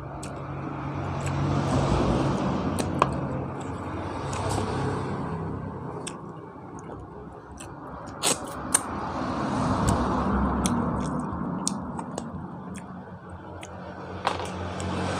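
Chewing boiled chicken and rice close to a clip-on microphone, heard as slow swells of noise, with a few sharp clicks, the two loudest about eight seconds in.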